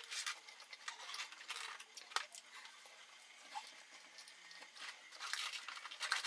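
Close-up eating of a McDonald's Grand Mac burger: chewing with wet, crackly mouth clicks in clusters that come and go, loudest near the end.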